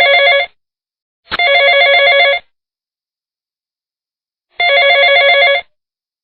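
Telephone ringing: trilling ring tones about a second long. One ring is ending at the start, another comes about a second in, and a third about four and a half seconds in, with silence between them.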